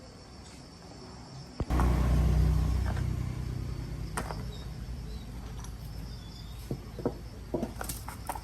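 A low, steady rumble that starts abruptly about two seconds in, with scattered sharp clicks and knocks over it.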